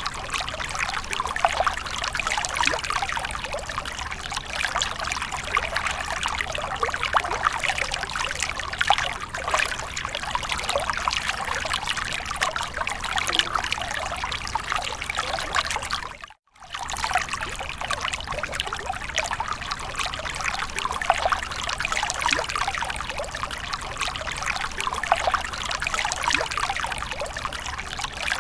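Water splashing and trickling continuously, a dense patter of small splashes, with a momentary cut-out a little past halfway.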